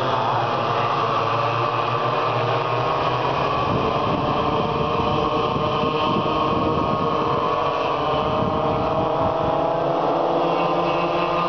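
Several small, high-revving racing engines running together, their pitches rising and falling as the vehicles accelerate and pass.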